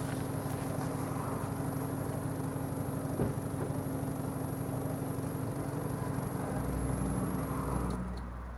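BMW 320i E90's four-cylinder petrol engine and exhaust idling steadily. Near the end the sound turns deeper and somewhat quieter.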